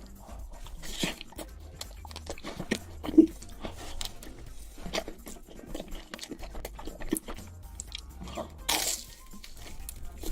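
Close-miked eating sounds: irregular chewing and crunching with small clicks, a sharp thump about three seconds in and a louder crunch near the end.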